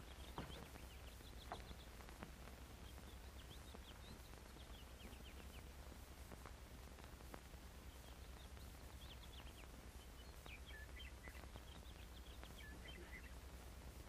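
Faint chirping of small birds, scattered short high chirps, over a steady low hum from the old film soundtrack. A few faint clicks in the first two seconds.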